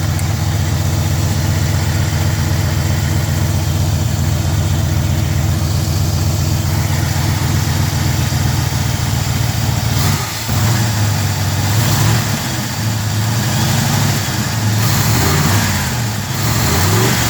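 Engine of a 1946 Chevrolet, fed by a Rochester Quadrajet four-barrel carburetor, idling steadily while still cold from a cold start. About ten seconds in, the throttle is blipped several times and the revs rise and fall.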